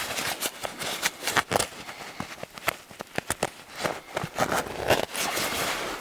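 Dense, irregular rustling and crackling of clothing and gear being handled as a person shifts about and gets ready to crawl out.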